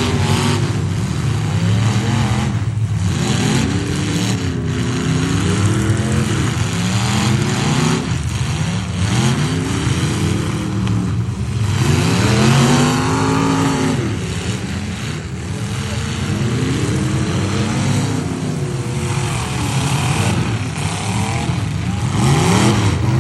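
Several demolition derby trucks' engines revving hard, their pitch rising and falling again and again and overlapping, loud throughout.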